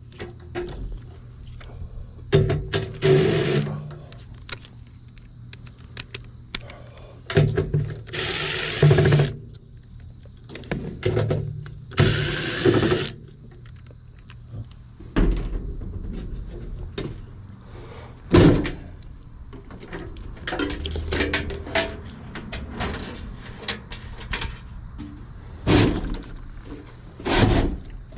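Hands-on work with tools on an HVAC unit's metal cabinet: irregular knocks, clicks and clunks, with two harsh hissing bursts of about a second each, one about eight seconds in and one about twelve seconds in. A low steady hum runs underneath.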